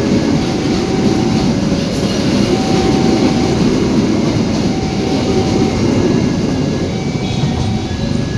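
Pertamina tank-wagon freight train rolling by: a steady, loud rumble of wagons on the track, with short faint tones recurring about every two seconds.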